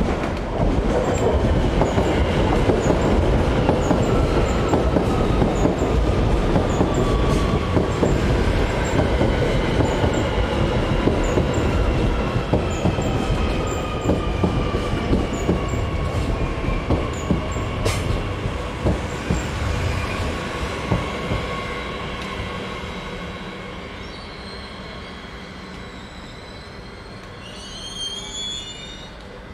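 Electric commuter train pulling into the station and braking to a stop. The loud running noise of wheels on rail sets in at once, with tones falling steadily in pitch as it slows. It fades, and a few brief high squeals come just before it halts.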